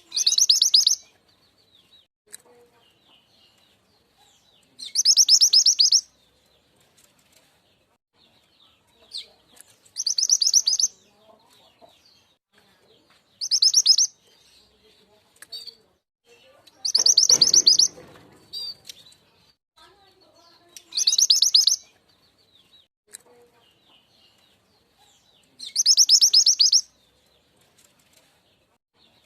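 Mantenan gunung (truntung weru) bird call used as a lure: a loud, high, very fast trill lasting about a second, repeated seven times at roughly four-second intervals, with faint small chirps in between.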